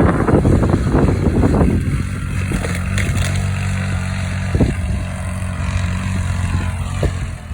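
Engine of a Polaris off-road vehicle running at a steady pitch, with a few brief knocks.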